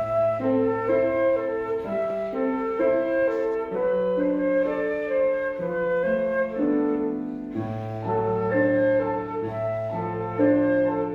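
Flute and piano duet: a flute plays a melody over piano accompaniment with held low bass notes, beginning the piece.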